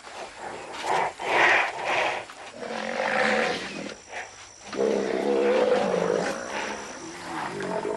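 Young male lions growling in several long, drawn-out bursts.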